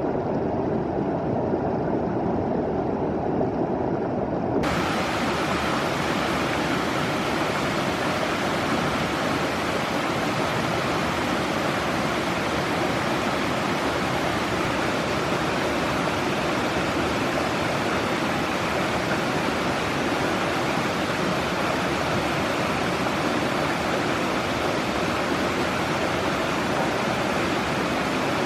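Stream water rushing steadily. It sounds muffled for the first few seconds, then opens up into a full, even hiss.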